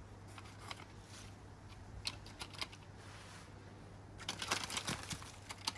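Items being handled and rummaged through: scattered light clicks and rustles, growing into a busier run of rustling clicks near the end, over a low steady hum.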